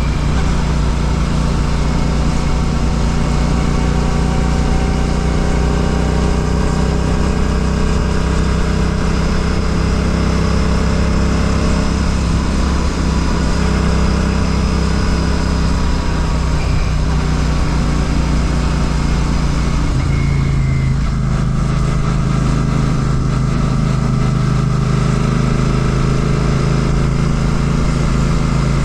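Royal Enfield Classic 650's parallel-twin engine running through an aftermarket Ngage exhaust while riding, a steady engine note whose pitch shifts about two-thirds of the way in.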